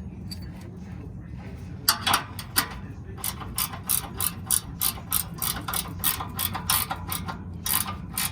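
Ratchet wrench clicking in quick strokes as a bolt is tightened, starting about two seconds in.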